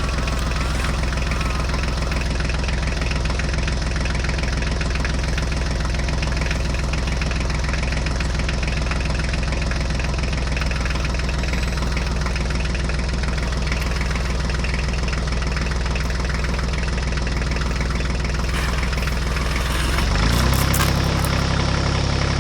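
A motor vehicle engine idling steadily with a knocking beat. About twenty seconds in it picks up, rising in pitch and getting a little louder.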